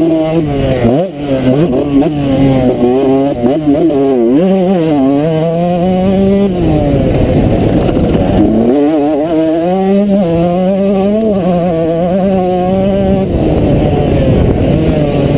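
A 2003 Suzuki RM125's 125 cc two-stroke single-cylinder engine revving hard, its pitch climbing and dropping again and again with throttle and gear changes. Twice the clean engine note gives way to a rougher, noisier stretch.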